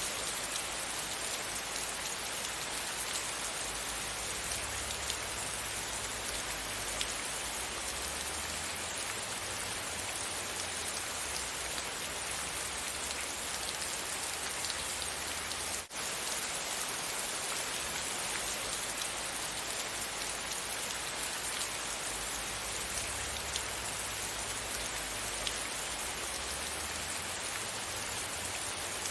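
Steady rain falling on a surface, a dense even patter with scattered individual drops and a low rumble underneath. About halfway through there is a brief dip in the sound.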